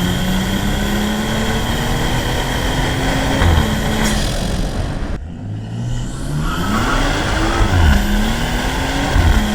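BMW 540i's B58 turbocharged inline-six, fitted with an aftermarket cold air intake, accelerating hard, its note climbing steadily. Near the middle a second pull starts low and climbs again, with a brief dip at a gear change.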